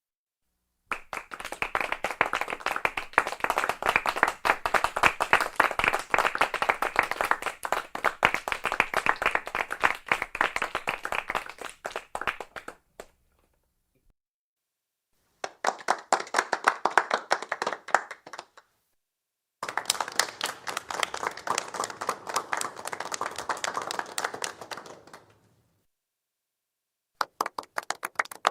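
A small group of people clapping in four separate rounds of applause with silent gaps between: a long round of about twelve seconds, two shorter ones, and a new one starting near the end.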